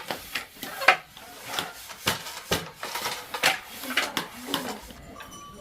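Irregular knocking and clattering of hard objects, about one to two knocks a second, like dishes or wooden things being handled.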